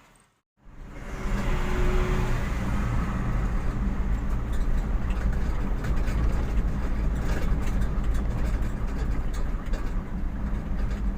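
Car on the move: steady engine hum and road rumble, starting just after a brief cut to silence about half a second in.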